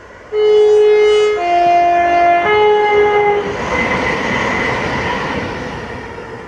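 A passing ScotRail passenger train sounds its two-tone horn in three notes, high, low, high, each about a second long. Then comes the rush of the train going by, fading away near the end.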